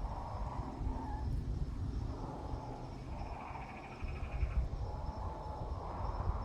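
Outdoor background noise: a low, uneven rumble with faint wavering calls, and a short high rapid trill about three seconds in.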